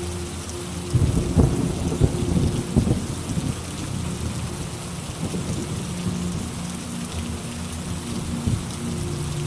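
Steady rain with a thunderclap about a second in, its rumble crackling for two or three seconds and then fading back under the rain.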